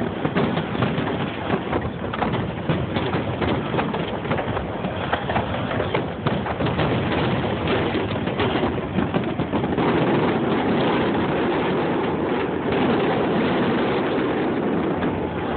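Fireworks display going off: a dense run of rapid bangs and crackling, with a steadier rush of noise for a few seconds about ten seconds in.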